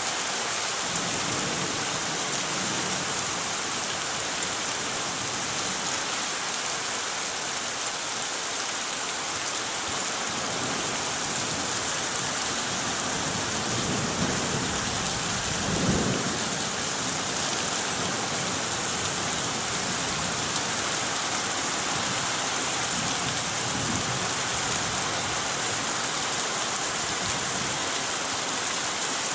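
Heavy rain falling steadily, a dense even hiss. About halfway through, a low rumble of thunder swells and fades.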